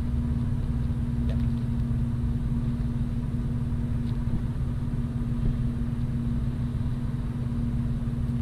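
A steady, low mechanical hum with an unchanging pitch, like a running engine.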